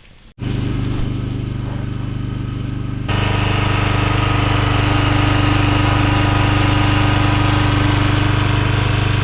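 Pressure washer's small gasoline engine running steadily, getting louder about three seconds in. It runs on to burn stale gas out of the carburetor bowl, after a clogged carburetor jet was cleared.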